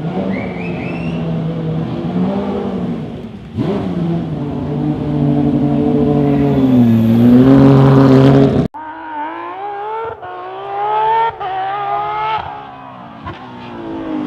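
Porsche 997 GT3 rally car's flat-six engine revving up and down at low speed. About two-thirds through the sound cuts off suddenly and is replaced by a quieter passage of the engine, its revs still rising and falling.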